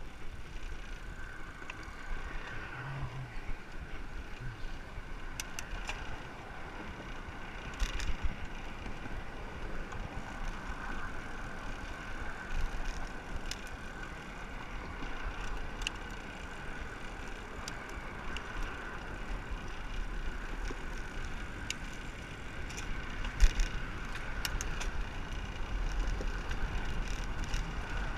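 Riding noise of a bicycle on the road: a steady rumble of wind on the microphone and a continuous rolling hum, with a few sharp clicks, the loudest about 23 seconds in.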